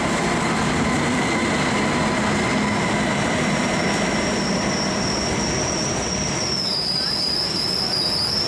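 ICE 2 high-speed train rolling slowly along a station platform, with a steady running rumble. A high-pitched wheel squeal sets in about halfway through and grows louder near the end.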